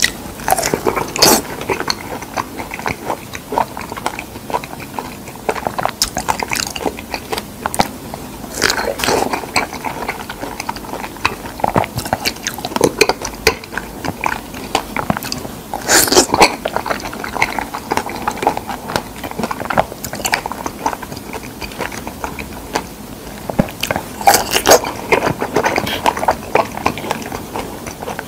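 Close-miked mouth sounds of a person biting into and chewing fresh figs, coming in irregular bursts of sharp clicks and smacks.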